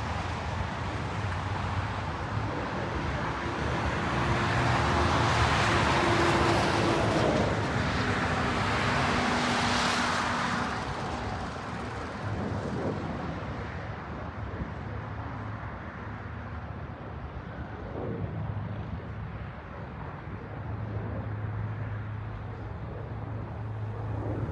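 Jet airliner passing by: its engine noise swells, is loudest for several seconds in the first half, then fades. A tone in it drops sharply in pitch as the plane goes past.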